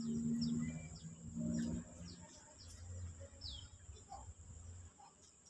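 Birds calling outdoors: short, high, falling chirps repeated every half second or so. Under them runs a low steady hum, loudest over the first two seconds, then fading to a faint rumble.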